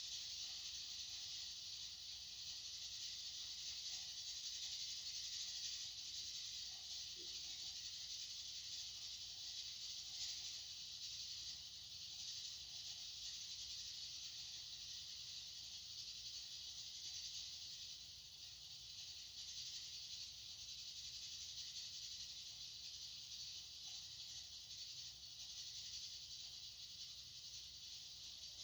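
Steady white-noise hiss, even and unbroken, with most of its energy in the upper range.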